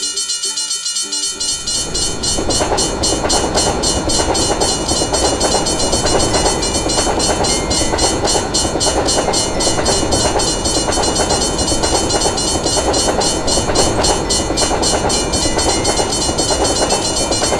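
Railway level-crossing warning bell ringing over and over in a quick, even rhythm, with a train rumbling past from about two seconds in.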